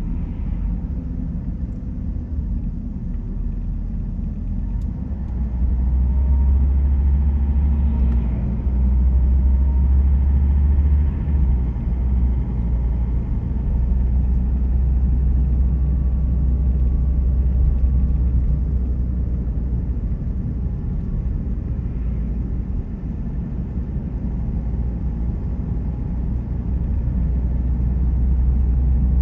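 Steady low rumble of a car driving on the road, engine and tyre noise. It swells louder about six seconds in, eases somewhat in the second half and grows again near the end.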